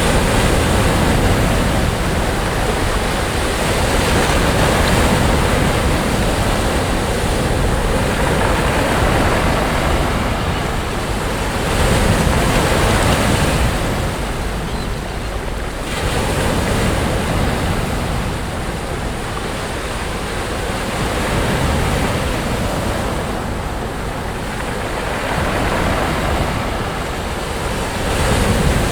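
Sea waves breaking on a sandy beach, a steady wash of surf that swells every few seconds as each wave comes in, with wind on the microphone.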